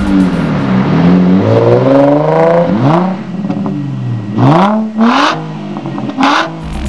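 Nissan 350Z's 3.5-litre V6 revved through a Magnaflow stainless steel exhaust: four or five throttle blips, the pitch climbing and falling back each time.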